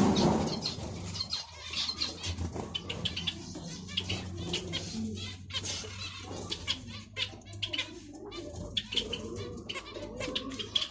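Zebra finches fluttering their wings, with many short high chirps and clicks running through.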